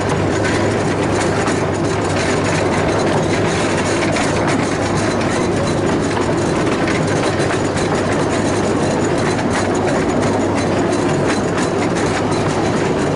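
Miniature railway train running along its narrow-gauge track: a steady running noise, with frequent clicks and clacks from the wheels on the rails.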